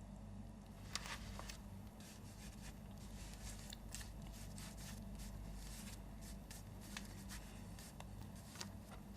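Faint rustling of paper and light taps of a writing brush on paper, over a low steady hum.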